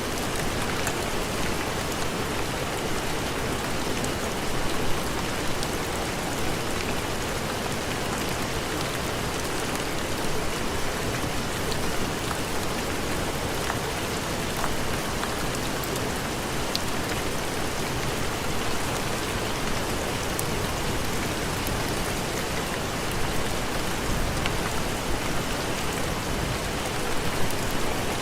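Steady heavy rain, an even hiss, with scattered small ticks and pops throughout.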